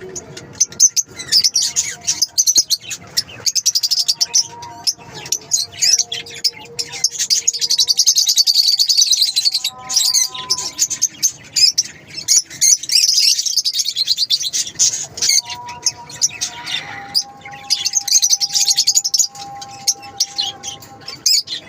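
Lovebirds chirping and chattering in a rapid, continuous stream of shrill, high-pitched calls. The chatter swells about a third of the way in and again a little past the middle.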